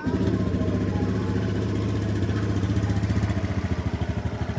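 Honda Beat FI scooter's single-cylinder engine idling steadily just after starting, with an even pulse that becomes clearer near the end. With new crankshaft bearings fitted, it runs with a normal idle instead of the rough sound like water about to boil.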